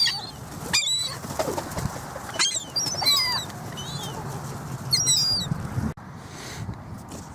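A flock of gulls calling in repeated short, high, wavering cries over a steady low rushing noise, with a sudden drop in level about six seconds in.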